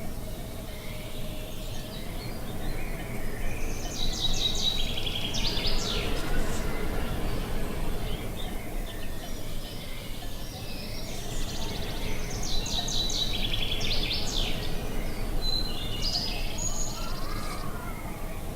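Songbirds singing in quick trilled phrases, a few seconds apart, over a steady low rush of wind.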